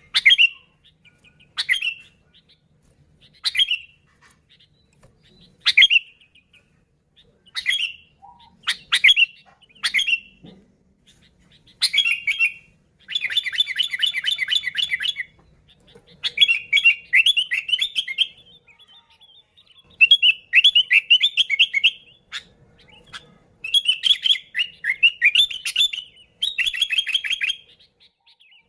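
Sooty-headed bulbul (kutilang) calling: short sharp notes about every two seconds, then longer, fast chattering phrases from about twelve seconds in.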